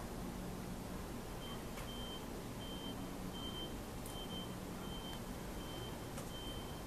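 Vehicle reversing alarm beeping at a steady pace, one short high beep about every two-thirds of a second, starting about a second and a half in, over a steady background hiss.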